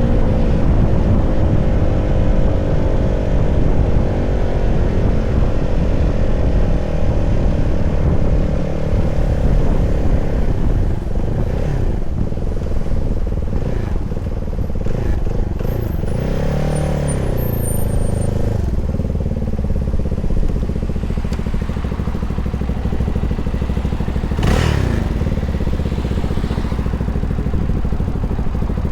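CFMoto 300SR's single-cylinder engine running on the move. Its pitch falls over the first few seconds as the bike slows, then it holds a steady rumble.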